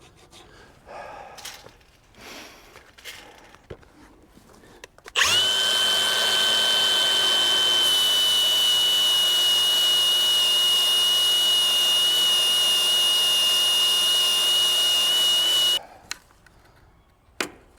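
Electric abrasive disc cutter spinning up with a rising whine, then running steadily for about ten seconds with a high whine over a loud hiss, as it would when cutting steel to a measured length, before stopping abruptly. Faint handling clicks come before it.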